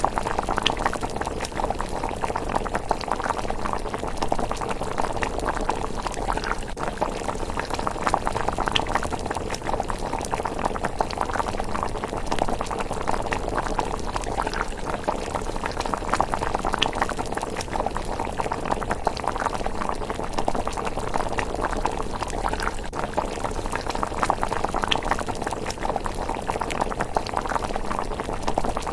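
A pot of thick rice porridge bubbling steadily at a simmer, with a few faint sharp ticks spaced several seconds apart.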